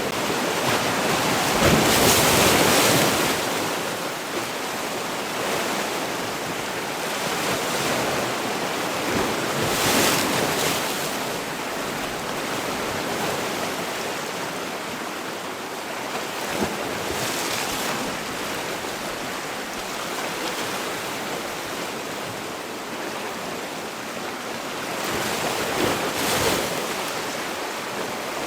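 Sea waves breaking on a shore, a steady wash of surf that swells into a louder crash about every eight seconds. The loudest crash comes about two seconds in.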